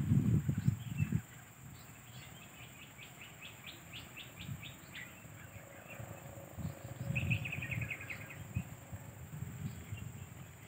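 Long-tailed shrike (cendet) calling in two quick chattering runs of short, high notes, the second run lower and tighter. Low thumps of noise on the microphone come and go, loudest in the first second.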